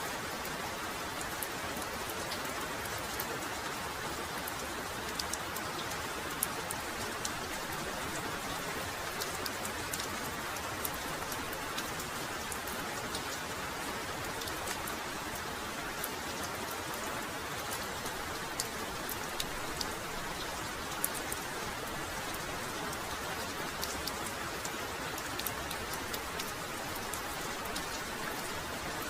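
Heavy rain falling steadily, a dense even hiss with many individual drops pattering and ticking sharply on nearby surfaces.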